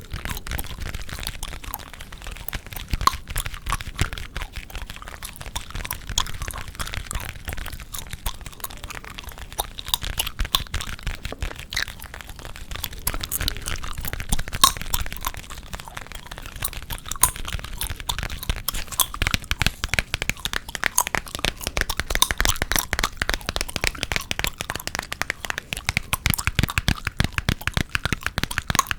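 Gum chewed close to the microphone, with dense, rapid wet snaps and cracks that come thicker and faster in the second half.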